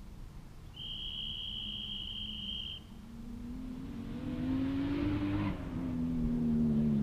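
Toyota 2JZ straight-six engine in a Nissan Skyline R34 revving at a distance: its pitch rises, dips, then holds steady as it grows louder with the car's approach. Before it, a steady high beep lasts about two seconds.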